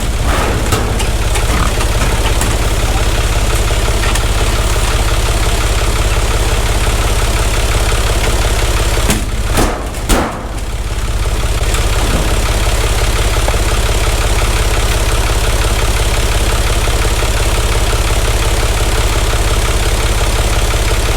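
Oliver tractor engine running steadily at idle, with a brief dip in level about ten seconds in.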